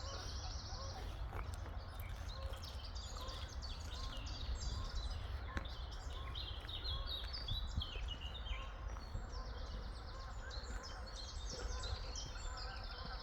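Many small birds chirping and singing at once, dense overlapping high chirps throughout, over a steady low rumble.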